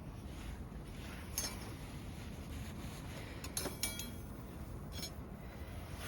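A few light clinks of metal eating or grilling utensils, one ringing briefly, over a low steady rumble.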